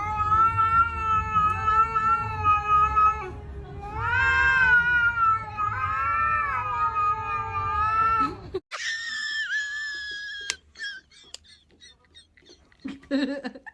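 Domestic cat yowling: a long, drawn-out howl, then a second long wavering one. About two-thirds of the way through the sound changes abruptly to a shorter, higher-pitched cry followed by a few clicks and brief sounds.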